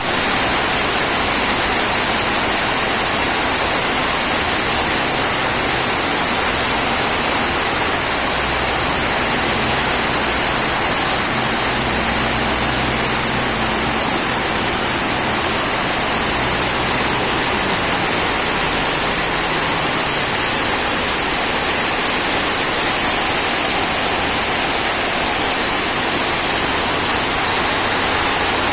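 Heavy rain falling steadily, a dense even hiss with no breaks. A faint low hum sits under it for a stretch in the middle.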